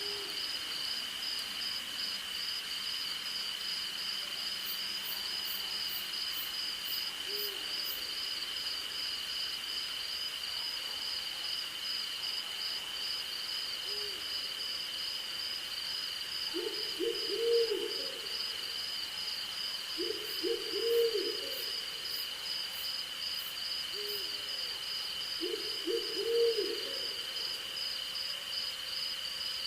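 An owl hooting against a steady chorus of crickets and other insects. Single short hoots come every several seconds, and in the second half there are three runs of several quick hoots, the loudest sounds.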